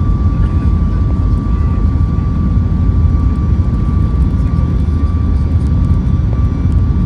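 Steady cabin noise inside a Boeing 737 MAX 8 airliner: an even, loud low rumble with a thin, steady whine running over it.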